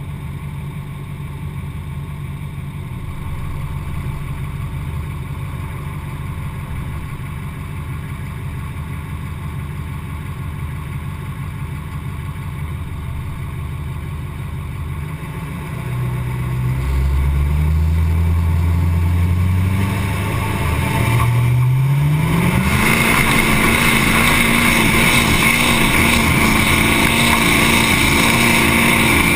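Duramax 6.6 L V8 turbodiesel pickup engine idling steadily, then revving up about 16 seconds in. A second climb near 22 seconds brings it to a loud, steady high-rpm run under heavy load, as in a truck pull.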